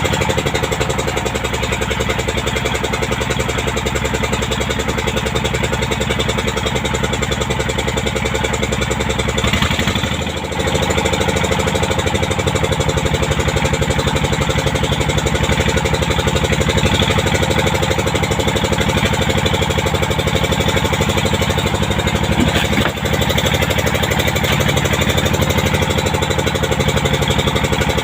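Boat's inboard engine running steadily at a constant speed, with a brief dip in level about ten seconds in and another shorter one later.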